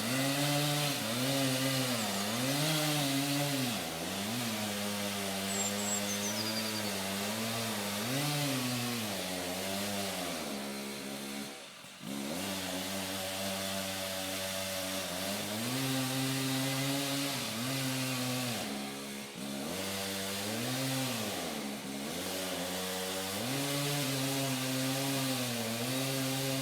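Chainsaw running hard while cutting into a big tree trunk, its engine pitch repeatedly sagging under load and recovering. It briefly eases off about twelve seconds in and again a few seconds later.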